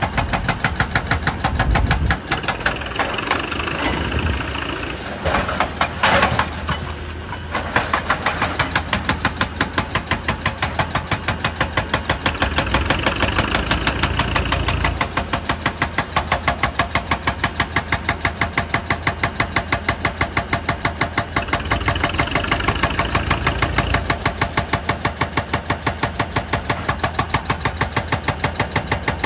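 Hydraulic rock breaker on a JCB excavator hammering rock in a rapid, even rhythm, with the excavator's diesel engine running under it. The hammering grows louder for a couple of seconds about a quarter of the way in.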